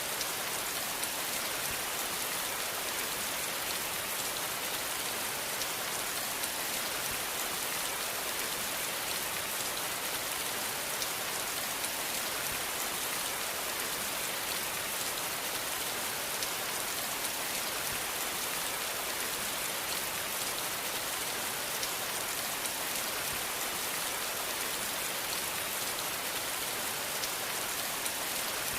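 Steady rainfall, an even hiss of rain on a surface with faint individual drop ticks, unchanging throughout.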